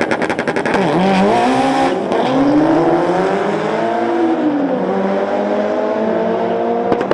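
Mitsubishi Lancer Evolution's turbocharged four-cylinder held on the rev limiter with a rapid stutter, then launching and accelerating hard. Its pitch climbs and drops sharply at each of two upshifts.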